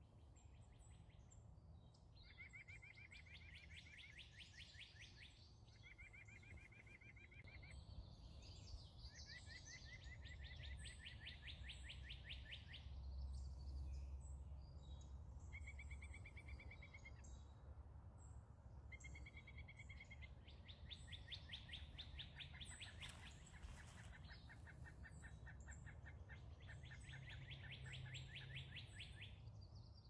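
Songbirds singing rapid high trills again and again, each lasting one to three seconds, with shorter chirped bursts between them, over a faint low rumble.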